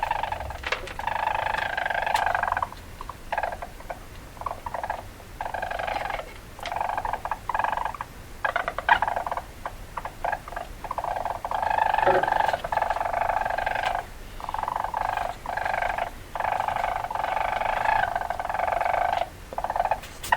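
Weasel chattering in repeated bursts of a second or two, separated by short pauses.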